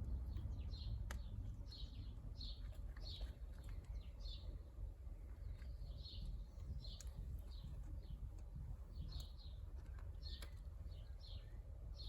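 A small bird chirping again and again, each a short high note, about two a second and irregularly spaced, over a steady low rumble.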